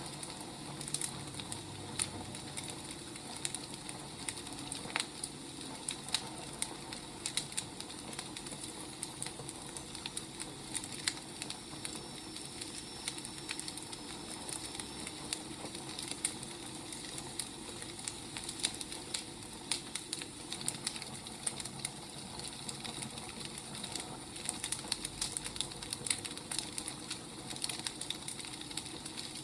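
Firewood burning, crackling: a steady soft hiss with frequent irregular sharp pops and snaps.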